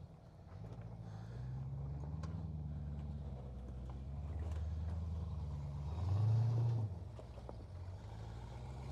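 Off-road vehicle's engine running at low revs while rock crawling, with the revs rising briefly about six seconds in.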